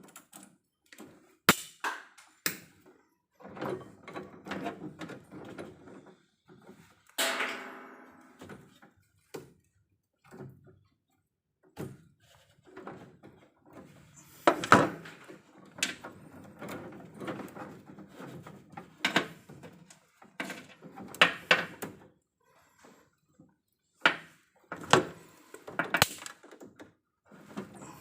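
Irregular knocks, clicks and rattles of tools and hardware being handled during electrical panel repair work, with a brief pitched squeak about seven seconds in.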